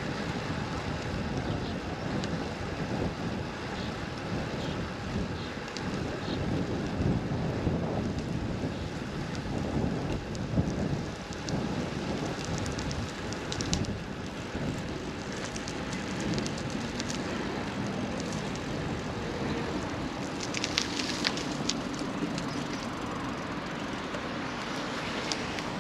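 Steady outdoor noise of wind on the microphone during a walk, with scattered faint clicks and ticks.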